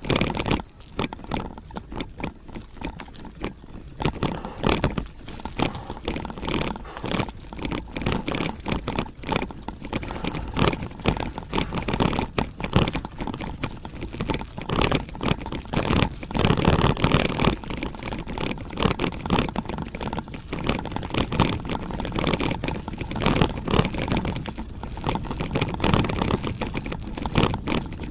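Dense, irregular crunching and rattling of movement over a rough gravel forest road.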